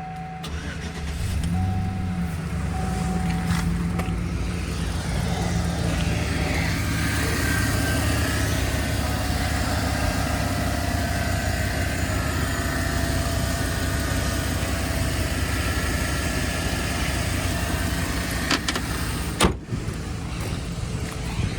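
2011 Chevrolet Silverado 1500 pickup's engine starting about a second in, its pitch briefly rising and settling, then idling steadily, with a sharp knock near the end.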